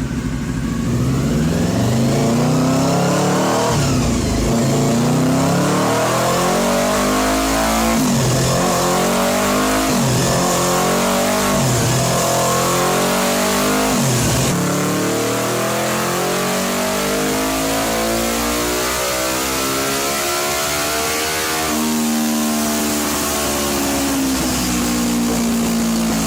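Honda NR oval-piston V4 motorcycle engine revving hard under acceleration. Its pitch climbs, then drops back at each quick upshift, several times in a row, before it runs on at high revs.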